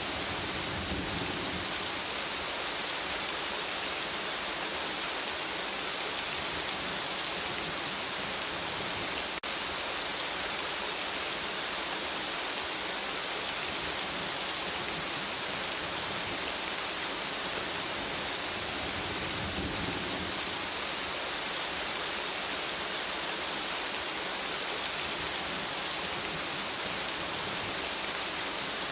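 Steady, dense rain falling on forest foliage, an even hiss. A low rumble swells briefly about a second in and again about two-thirds of the way through.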